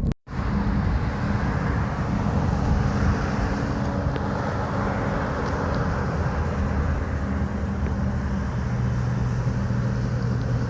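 Steady vehicle engine and road noise, a low hum that drops in pitch about eight seconds in.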